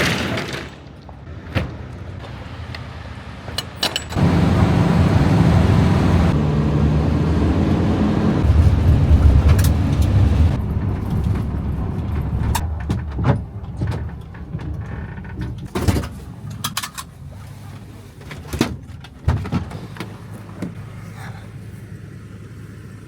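A motor vehicle running, with a loud low engine rumble for about six seconds starting some four seconds in, then settling to a quieter steady hum. Scattered sharp knocks and clicks, like doors and gear being handled, come throughout.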